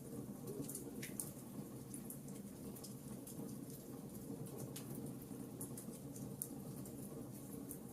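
Wood fire crackling in a fireplace: scattered sharp pops and snaps at irregular intervals over a steady low rumble of the burning fire.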